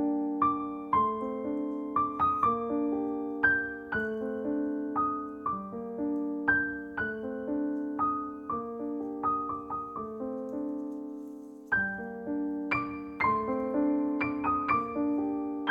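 Background piano music: gentle struck notes and chords over a steady low accompaniment, with a short pause about twelve seconds in.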